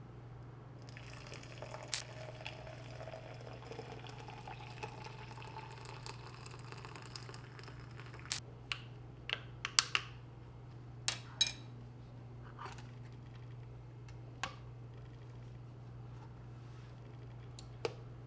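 Liquid poured into a cup or vessel, a hiss with a pitch that rises as it fills, followed by a quick run of sharp clicks and taps. A steady low hum sits underneath.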